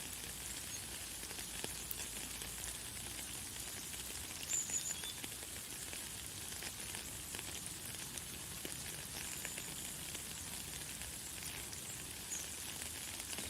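Light, fine rain falling as a steady high hiss, full of tiny drop ticks. A few short, high bird chirps come through it, the loudest about four and a half seconds in.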